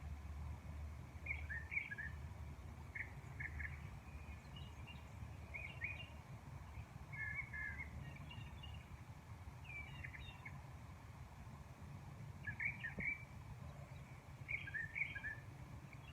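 Songbirds chirping in short, scattered calls, several birds answering one another, over a steady low background rumble.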